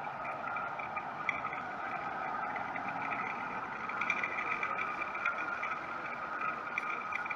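Jet airliner engines running, a steady whine over a broad rush that grows a little louder toward the middle.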